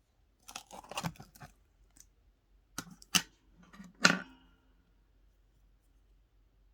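Blue slime being squeezed and pressed by hand, making bursts of sharp clicks and pops: a crackly cluster about a second in, two snaps near three seconds, and a louder pop just after four seconds.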